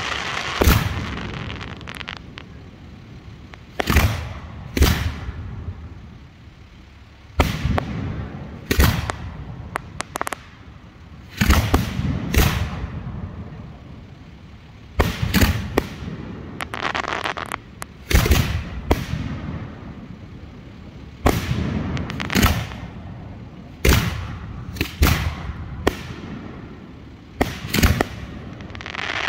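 Hand-fired 3- and 4-inch aerial firework shells firing and bursting: sharp booming bangs every two to three seconds, often two close together, with stretches of crackling after some of them.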